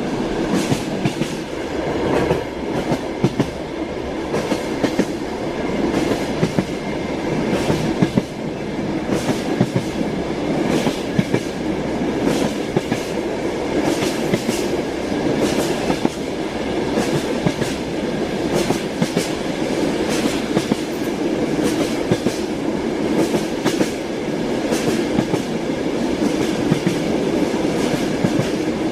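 Moving train heard from inside a carriage: a steady rumble of wheels on the rails, with frequent sharp clacks as the wheels pass over rail joints.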